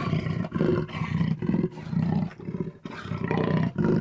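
Jaguar calling: a series of repeated low, rough roaring grunts, about two a second.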